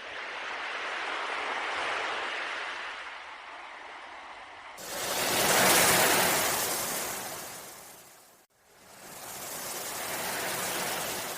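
Sea waves washing in and drawing back in three slow swells, the loudest about six seconds in, with a brief drop almost to silence after it.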